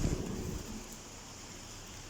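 Heavy rain with wind buffeting the microphone: a steady hiss, with a low rumble in the first half-second.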